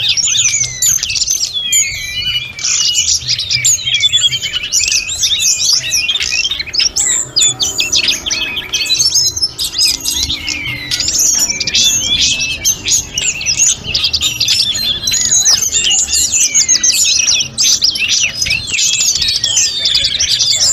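Tledekan gunung (sulingan gunung) songbird singing a continuous, rapid, varied run of high chirps and fluting whistles.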